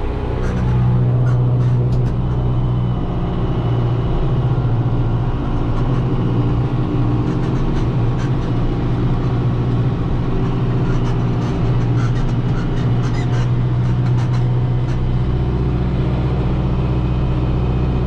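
Tractor engine running steadily while pulling a hay baler, with scattered light clicks and rattles from the machinery.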